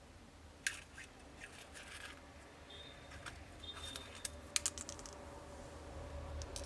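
Scattered light clicks and taps of small hand tools on a smartphone's plastic and metal parts during a teardown, with a cluster of sharper clicks about four and a half seconds in, over a low steady hum.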